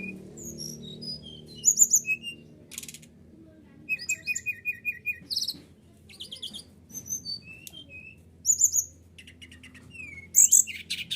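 SRDC songbird calling in quick, varied phrases: sharp chirps, short buzzy trills and rising whistles, with a rapid run of about seven even notes about four seconds in. A faint low hum runs under the song.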